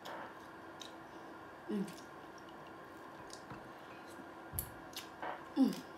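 Close-up eating sounds: wet squishing and sparse mouth clicks as a piece of butter-dipped seafood is bitten and chewed. Two brief low hums come about two seconds in and near the end, the second the loudest.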